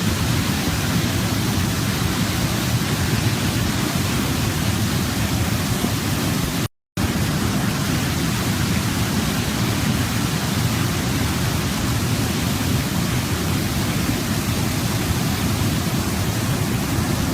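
Waterfall: a steady rush of falling water. It cuts out to silence for a split second about seven seconds in, then carries on unchanged.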